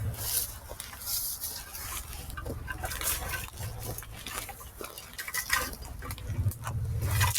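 Footsteps crunching through dry leaves and brush, irregular crackles about every half second, over a low rubbing rumble from the recorder being carried as he walks.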